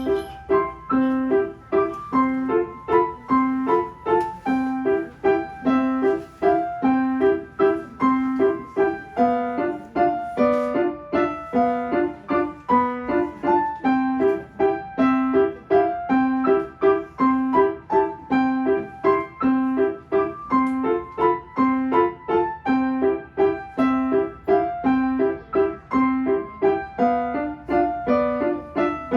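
Solo piano playing an evenly paced piece, a repeating low accompaniment figure under a melody in the upper notes; the playing begins right at the start.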